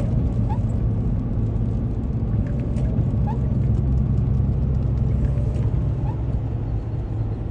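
Car driving, heard from inside the cabin: steady low rumble of engine and road noise, with a faint short chirp about every three seconds.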